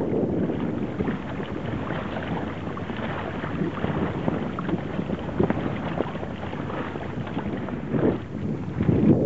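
Wind and water noise aboard a small sailboat under way: water splashing and crackling along the hull, with wind buffeting the microphone, heaviest at the start and again near the end.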